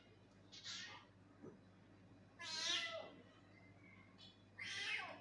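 Domestic cat meowing repeatedly: three drawn-out meows about two seconds apart, the middle one the longest.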